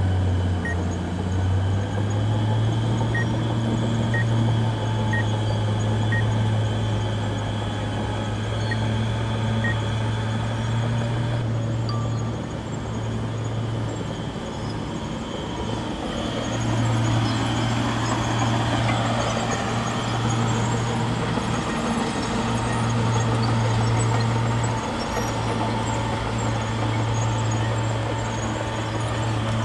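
Bulldozer's diesel engine running steadily, its low drone shifting pitch up and down several times as the load changes. Faint short beeps sound about once a second over the first ten seconds.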